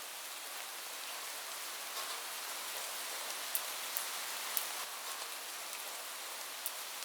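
Steady rain falling, an even hiss, with a few sharp, louder drop hits standing out now and then.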